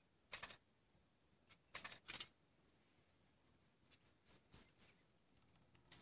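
Faint high bird chirps, a short run of quick notes in the second half, with a few short scratchy noises that are the loudest sounds, once early and twice around two seconds in.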